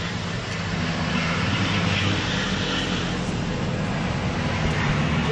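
Racing trucks' diesel engines running loud and steady at the circuit, a continuous engine drone with no break.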